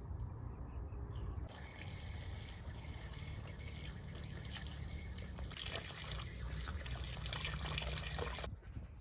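Water pouring in a steady stream, starting about a second and a half in and stopping sharply near the end, over a low steady rumble.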